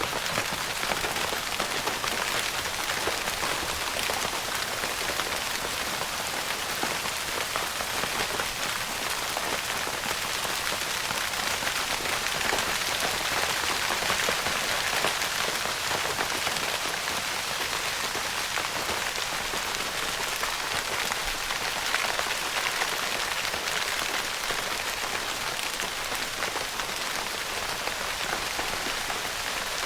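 Steady rain pattering on a tent's fabric, a dense even hiss of many small drop taps.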